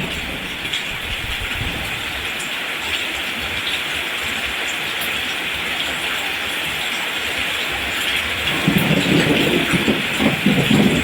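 Steady rain falling on rice plants, an even hiss. About eight and a half seconds in, a low rumbling joins it and grows louder.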